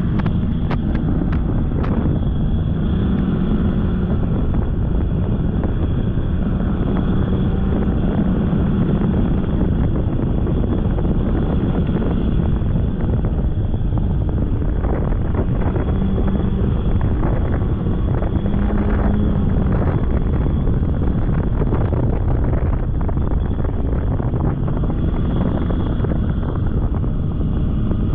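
Polaris snowmobile running along a trail, its engine note swelling and easing with the throttle over a dense rush of noise. A few sharp ticks sound in the first two seconds.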